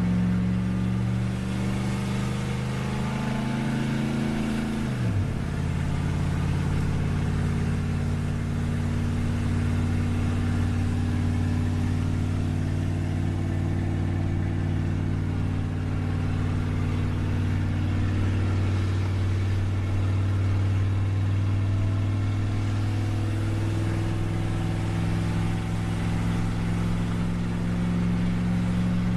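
1994 Dodge Ram's 318 (5.2-litre) V8, running on wood gas, pulling a load of farm equipment on the road. Its revs climb and then drop sharply about five seconds in, and it then runs steadily.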